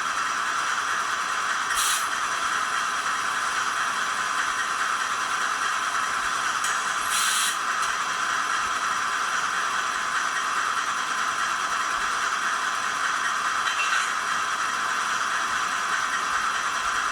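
A DCC sound decoder in a model NR class diesel locomotive playing its diesel engine sound through the model's small speaker, steady and thin, with two short bursts of air hiss about two seconds and seven seconds in.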